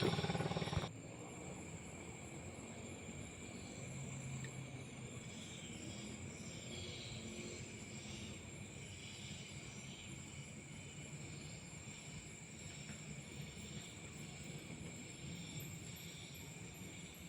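Night insects, crickets among them, chirping and trilling steadily in a continuous high chorus, with rows of repeated chirps above it. A louder noise cuts off abruptly about a second in.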